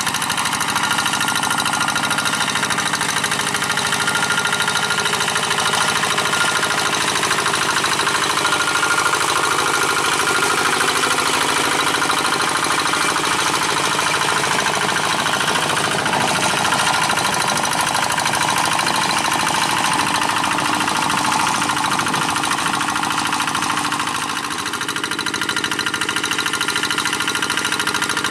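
G1000 hand tractor's diesel engine running steadily while it pulls a moldboard plow through dry paddy soil, with a brief dip in level near the end.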